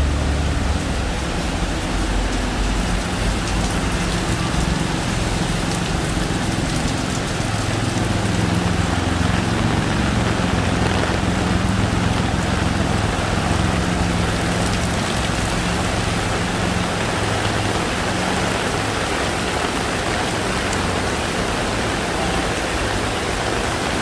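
Heavy rain pouring down in a steady, dense hiss. A low hum sits under it through the middle.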